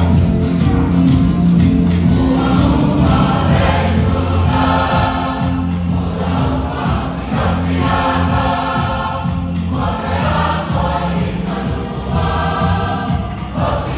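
Church choir singing a hymn with a steady instrumental accompaniment underneath.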